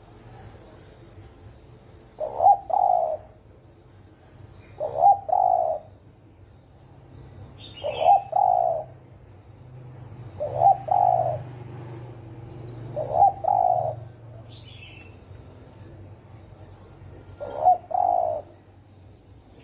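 Spotted dove giving its deep cooing call. There are six short coo phrases, one every two to three seconds, with a longer pause before the last. A small bird chirps faintly twice in the background.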